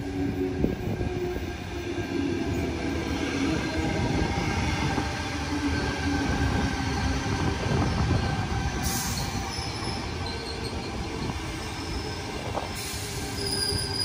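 Tangara double-deck electric train running slowly past close by, its wheels rumbling over the rails with a steady hum, and thin high-pitched wheel squeal in the second half.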